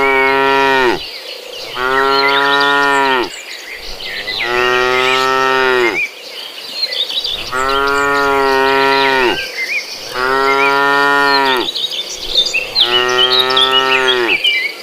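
Cattle mooing in a steady series of long calls, one every two to three seconds: a call ends about a second in and five more follow, each held level and dropping in pitch as it ends. High chirping runs faintly in the background.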